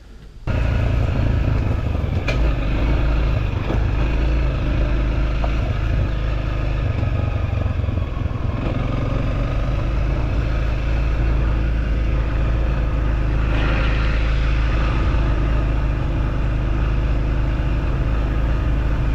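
Motorcycle on the move: steady engine noise under a heavy, continuous wind rumble on the microphone, starting abruptly about half a second in.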